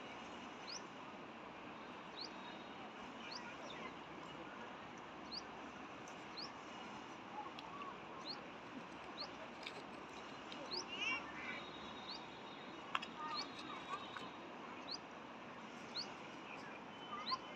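Small birds calling: a short high chirp repeated about once a second, with a brief run of trills around the middle, over a steady background hiss.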